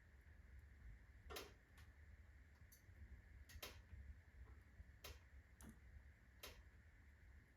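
Birch-log fire in a fireplace crackling sparsely as it slows after the full blaze: faint, irregular sharp pops, about six in all, over a low steady hum.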